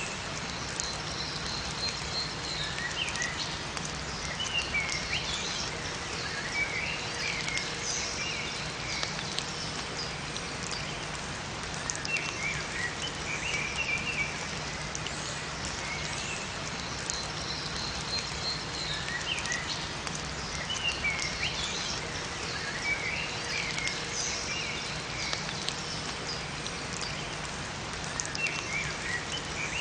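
Steady rain falling in a forest, with small birds chirping in short twittering phrases every few seconds over it.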